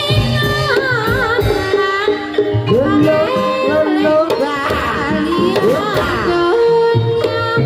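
Live Javanese gamelan playing for a kuda kepang (ebeg) dance: a singer's wavering vocal line over held metallophone tones and repeated hand-drum (kendang) strokes.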